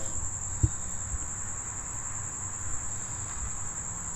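Crickets chirping in a steady, unbroken high trill, with a single low thump about half a second in.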